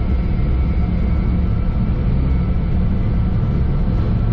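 Steady low rumble of a Learjet 45XR's turbofan engines and airflow heard inside the cockpit, with a faint steady whine over it.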